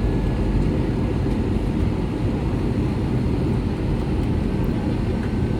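Steady low rumble of cabin noise inside an Airbus A321 on descent: its CFM56 engines and the airflow over the fuselage, even throughout, with a faint thin tone above it.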